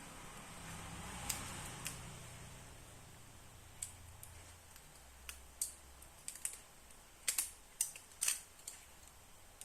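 Irregular sharp clicks and taps of small hard phone parts being handled, most of them in the second half and several close together near the end.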